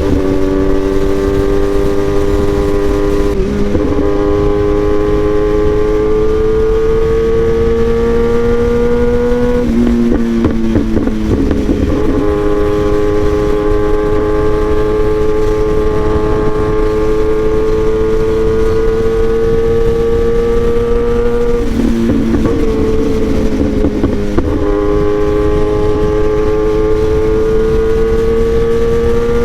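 Kawasaki ZX-10R's inline-four through an SC-Project aftermarket exhaust, ridden at steady moderate revs with the engine note slowly climbing in pitch. The note breaks and changes briefly several times, about 3, 10, 22 and 24 seconds in.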